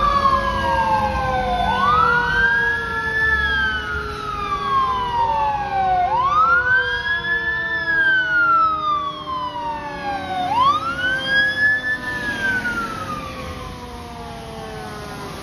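Fire apparatus siren wailing three times, each wail rising quickly and then falling slowly, over a second, slower falling siren tone and the rumble of the trucks. It fades away near the end as the trucks move off.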